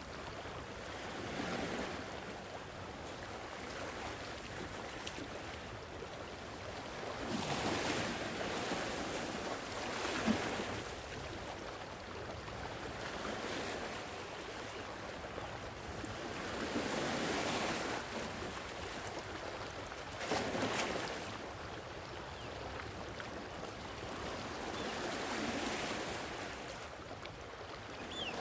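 Gentle sea waves washing onto the shore: a steady hiss of surf that swells and eases every few seconds as each wave breaks.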